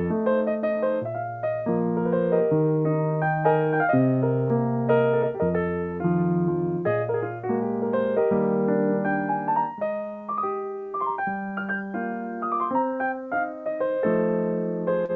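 Solo piano playing a continuous piece, a steady flow of melody notes over changing chords.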